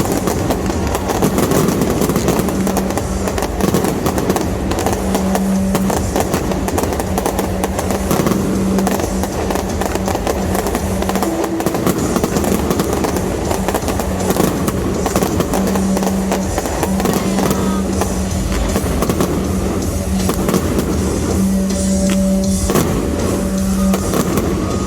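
Fireworks bursting and crackling without pause, with music playing over them; a low held note in the music comes and goes.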